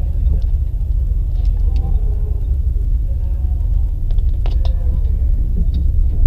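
Peugeot 306 Rallye's 2.0-litre four-cylinder engine idling, heard from inside the cabin as a steady low rumble. A few sharp clicks come about four and a half seconds in.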